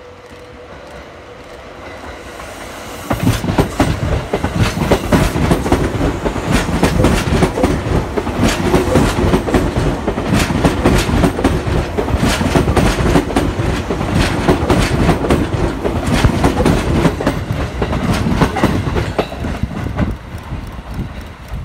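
Seibu 2000 series electric train passing close by, its wheels clattering over rail joints and points. The sound swells for a few seconds, turns loud and dense about three seconds in, and drops back near the end.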